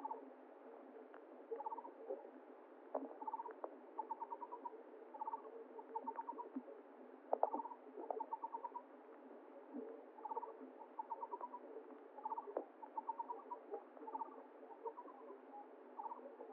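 An animal calling over and over: short trills of rapid pulsed notes, about one a second, over the steady rush of flowing water.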